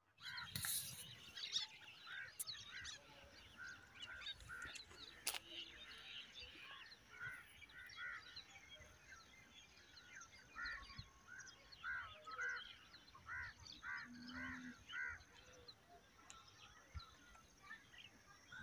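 Crows cawing over and over in short harsh calls, often two or three in quick succession, with fainter chirps of other birds.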